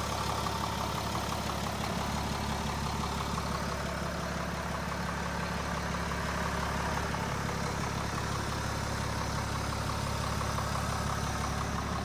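6.7-litre Cummins inline-six turbo diesel in a Ram 3500 idling steadily.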